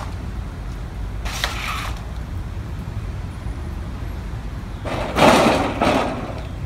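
Heavy demolition machinery rumbling steadily while a building is torn down, with two bursts of crunching, crashing debris; the louder one comes about five seconds in.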